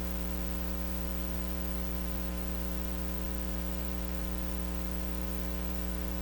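Steady electrical mains hum with a stack of buzzing overtones and faint hiss: the noise of a recording input with the microphone switched off, so nothing of the printer comes through.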